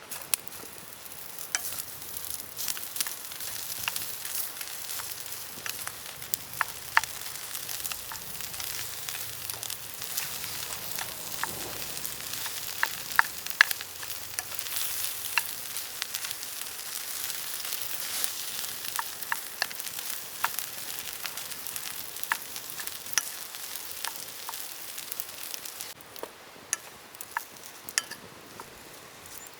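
Fried rice sizzling in a hot pan, with frequent clicks and scrapes of a spatula stirring and tossing it. The sizzling dies away near the end.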